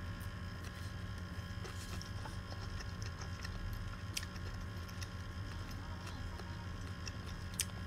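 Person quietly chewing a mouthful of food, with a few faint mouth clicks, over a steady low room hum.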